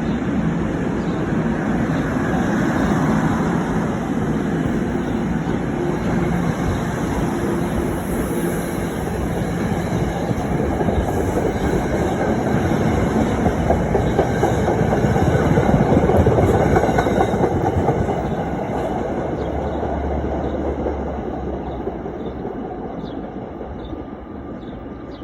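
NJ Transit commuter train running along the tracks through the station, wheels rumbling and clicking over the rail joints. The sound swells to its loudest a little past halfway and fades toward the end as the train moves away.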